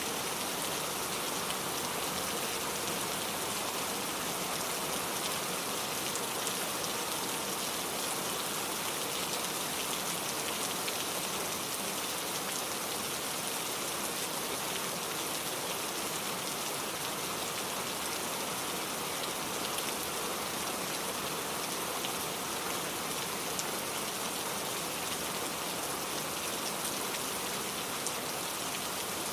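Steady rain falling, an even patter of many drops with no change in strength.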